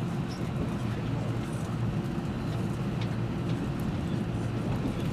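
Running noise inside a JNR 485-series limited express electric train on the move: a steady low rumble with a constant hum.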